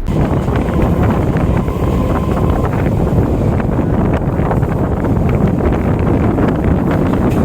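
Electric local train (EMU) running, a steady loud rushing noise with wind buffeting the microphone.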